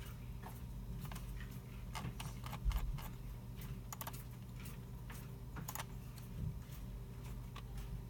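Computer keyboards typing and mouse clicks, scattered and irregular, over a steady low hum. A single low thump comes about two and a half seconds in.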